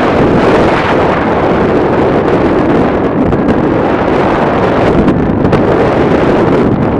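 Loud, steady wind rushing and buffeting the microphone of a paraglider in flight in strong wind.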